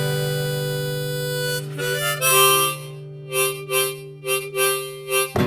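Instrumental song outro: an acoustic guitar chord rings on while a harmonica plays a phrase of short notes, about seven of them, and a new guitar strum lands near the end.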